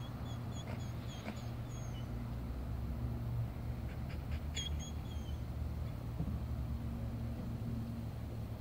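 A bird calling a quick run of short, evenly spaced high chirps, falling slightly at the end, then a shorter run of three or four about four and a half seconds in, over a steady low rumble.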